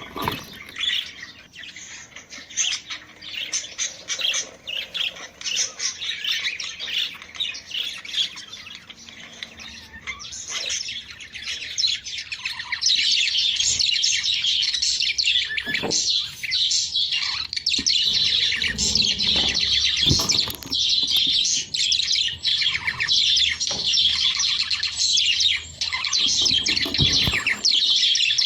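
Budgerigars chattering and warbling in rapid high chirps and squawks: the budgie mating-call chatter played to encourage breeding. Softer at first, it grows louder and denser about halfway through.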